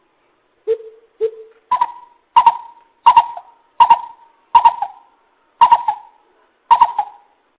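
Greater coucal call from a lure recording: a series of nine short hooting notes, a little over one a second. The first two notes are lower and the rest are about an octave higher.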